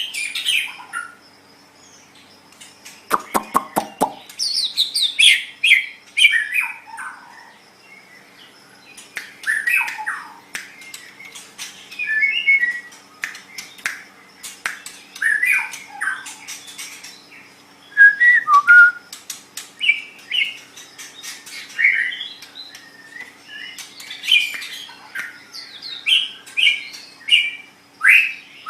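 White-rumped shama (murai batu) singing a varied string of whistled and harsh phrases, with a quick rattle of sharp clicks about three seconds in.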